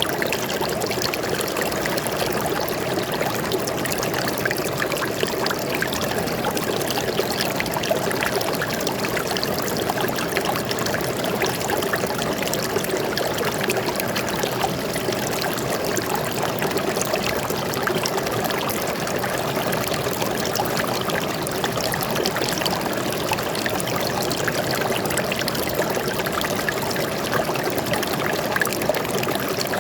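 Stream of water flowing steadily, a continuous trickling and splashing with no let-up.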